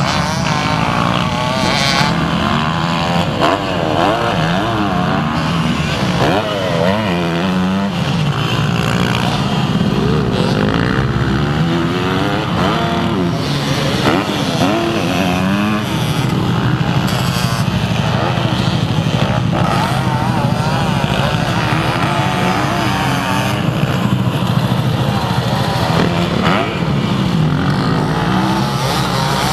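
Motocross dirt bike engines revving up and down as they ride the track, several overlapping at once, their pitch rising and falling with each throttle change.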